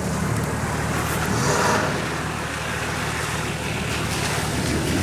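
Off-road 4x4's engine running, its pitch rising and falling a little as the throttle changes, with a rushing noise over it.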